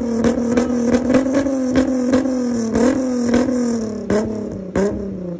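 Volkswagen Jetta Mk3's VR6 engine held at high revs, its exhaust note steady with sharp pops and crackles several times a second; the revs sag slowly and drop off near the end.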